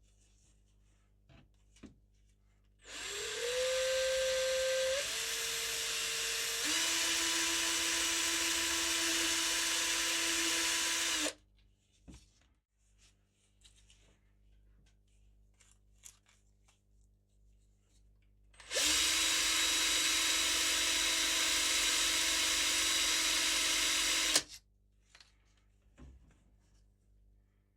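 Small electric power tool, drill-type, run twice: about eight seconds, then about six. Each run has a strong whine that rises as the tool spins up. In the first run the pitch steps down twice before it cuts off. Light clicks and handling noise fill the pauses.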